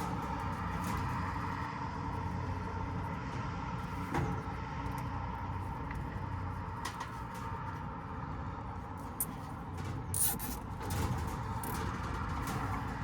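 A steady low mechanical hum and rushing background noise, with a few light clicks and knocks of handling, and a louder short rattle about ten seconds in.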